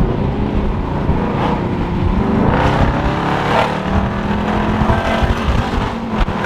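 Dodge Charger Scat Pack's 392 Hemi V8 heard from inside the cabin, accelerating hard. Its pitch climbs a few seconds in, then holds steady.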